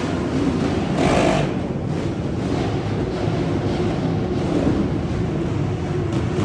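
A group of motorcycle engines running together in a road underpass, a steady low rumble with a louder burst about a second in.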